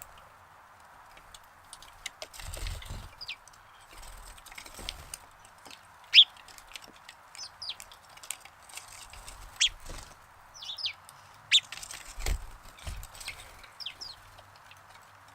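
Sparrows chirping: scattered short, sharp chirps, some sliding downward and a few much louder than the rest, over a steady background hiss, with a few soft low thuds.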